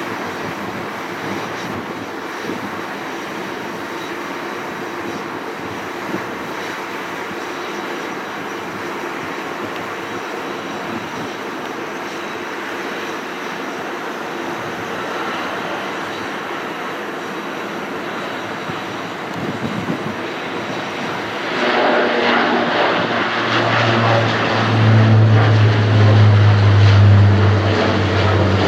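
Airbus A320 jet airliner landing: a steady rushing engine noise that grows much louder about three-quarters of the way through, with a strong low drone loudest near the end.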